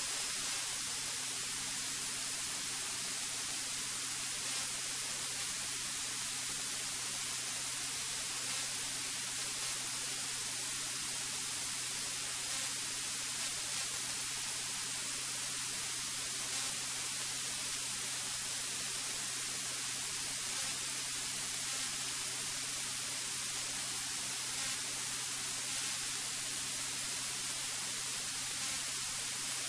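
Steady hiss of a cockpit intercom audio feed, with a faint, steady low hum of the aircraft's engine underneath, unchanging throughout.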